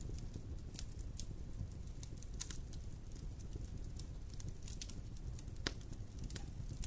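Fire in a fireplace crackling: a steady low rumble of flame with scattered sharp pops, the loudest about five and a half seconds in.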